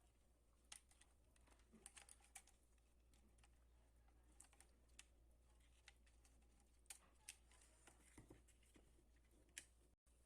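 Near silence with faint, irregular light clicks and taps, a dozen or so scattered through, over a low steady hum.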